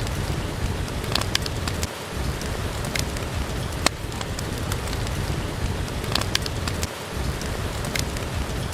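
Steady rain falling, with scattered sharp pops of a wood fire crackling in a fireplace.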